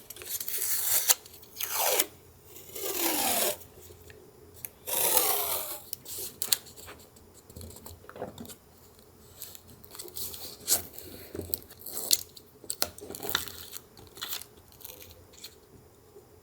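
Paper being torn by hand in three drawn-out tears over the first six seconds, followed by light taps, clicks and rustles of paper being handled.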